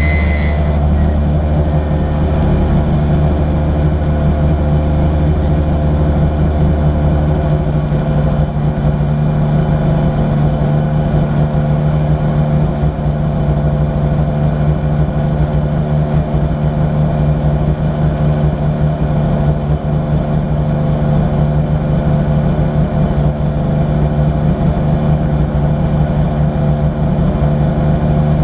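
Citroën C2 R2 Max rally car's four-cylinder engine idling steadily while the car stands still, heard from inside the cabin. A deeper drone underneath cuts out about seven seconds in.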